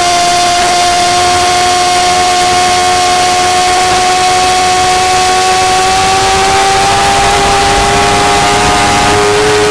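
2008 Yamaha R6's inline-four engine pulling hard in one gear, a loud high-pitched note rising slowly as the bike accelerates through a long corner, over a steady rush of wind.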